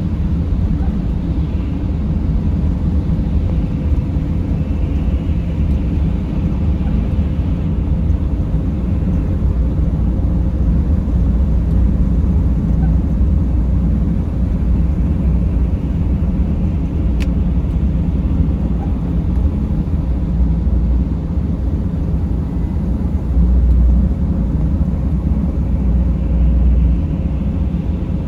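Steady low rumble of a Mercedes Sprinter van being driven: engine and road noise with a faint steady whine, swelling briefly twice near the end.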